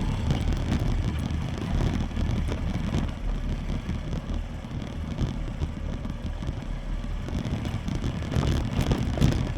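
Haojue NK 150 motorcycle riding over loose sand and gravel: the engine is running steadily under a rough rumble from the surface, with wind buffeting the microphone.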